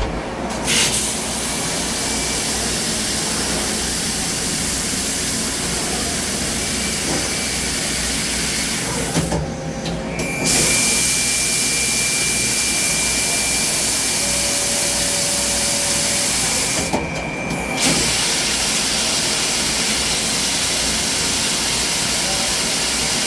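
CNC machine running: a steady loud hiss that drops out twice for about a second, around nine and seventeen seconds in, with a thin high whine in the stretch between.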